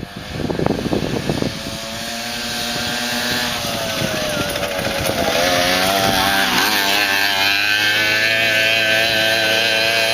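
Two-stroke dirt bike engines running and revving, the pitch rising and falling, with a loud rough patch in the first second and a half.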